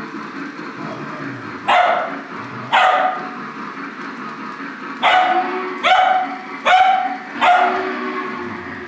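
A dog barks six times: two barks about a second apart, then after a pause four more in quicker succession. Under them runs the steady low rumble of a Lionel O gauge model train running on its track.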